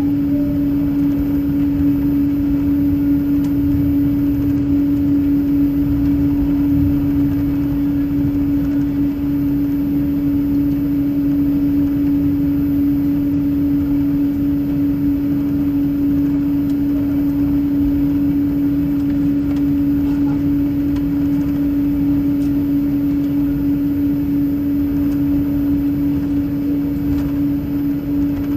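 Inside a jet airliner's cabin before takeoff: a steady, unchanging hum with one strong tone over a low rumble, from the idling engines and cabin air system.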